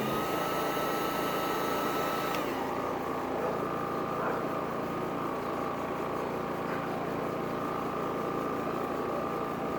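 Champion 4650 inverter generator engine running steadily under a heat-gun load. A thin high whine over it stops about two and a half seconds in.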